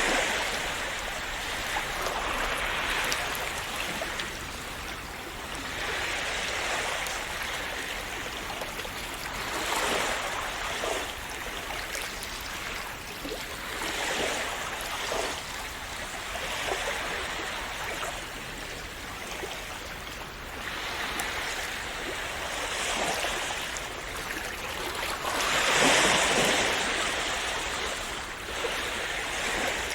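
Calm sea waves washing and splashing onto the shore, swelling and falling back every few seconds, with the biggest wash near the end.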